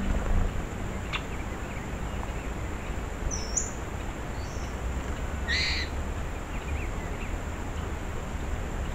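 Two short, high bird calls about two seconds apart, the second harsher, over a steady low hiss and rumble, with a faint click about a second in.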